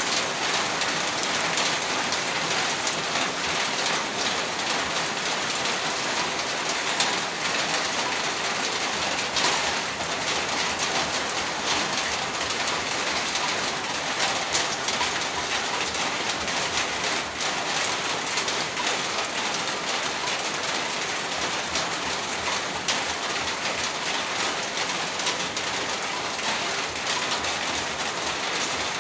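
Heavy rain pouring steadily, a dense even hiss with a few sharper splashes standing out.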